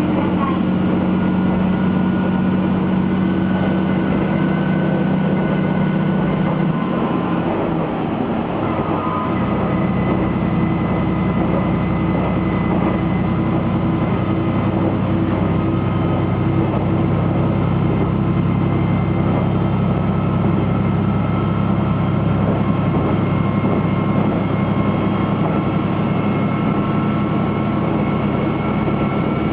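Steady drone of a diesel railcar under way, heard inside the passenger car. About eight seconds in, the engine note wavers and dips, then settles lower and heavier.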